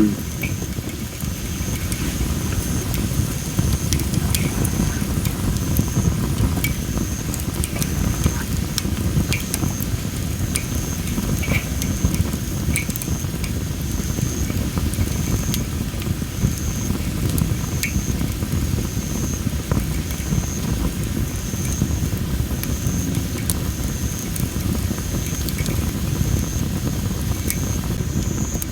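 Well-dried masaki (Japanese spindle) firewood burning in a fire pit, crackling with scattered sharp pops over a steady low rumble. A high-pitched chirp pulses about once a second in the background.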